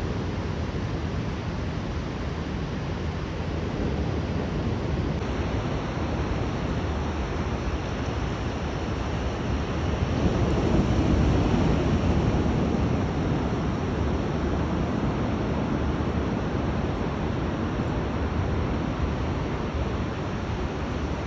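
Rough sea surf washing in as a steady rush, swelling louder about ten seconds in as a wave breaks, with wind on the microphone.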